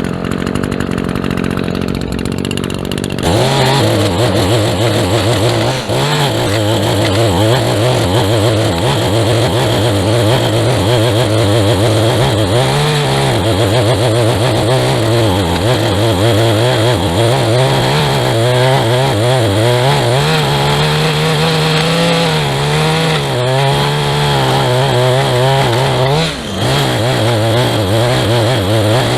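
Small two-stroke engine of a handheld lawn tool idling, then throttled up about three seconds in and run at high speed, its pitch rising and sagging as it cuts, with a brief drop in speed near the end.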